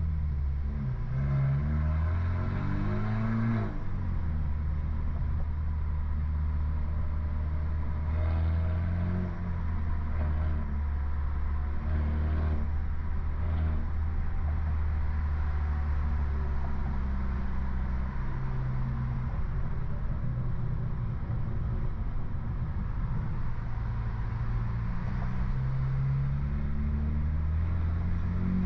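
BMW F30 328i's turbocharged four-cylinder with a stage 2 tune, downpipe and loud aftermarket exhaust, driving at low speed: a steady engine drone. The revs rise and fall briefly near the start, again about a third of the way in, and near the end.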